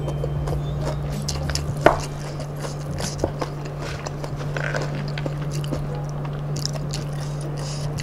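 Close-up mouth sounds of chewing and crunching crispy fried batter crumbs (kremesan) with rice, with small crackles and a sharp click about two seconds in. A steady low hum runs underneath.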